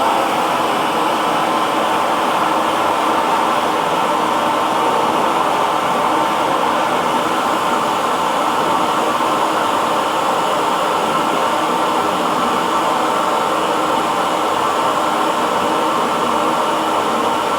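Electric hair dryer running steadily: a continuous airy whoosh of fan and blown air with a faint motor hum.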